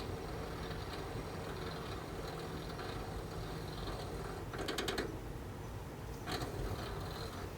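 Toshiba RAS-5066AD air conditioner indoor unit running with its front cover removed: a steady hum and fan noise, with a short burst of rapid clicking about five seconds in and a shorter one a little later.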